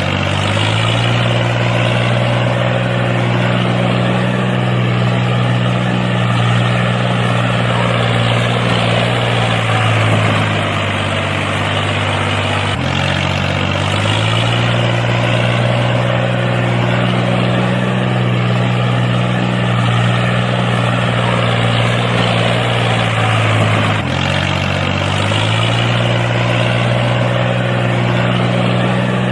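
Steady low engine drone of a tractor-type vehicle running continuously. It shifts pitch briefly twice, about ten seconds in and again about twenty-four seconds in.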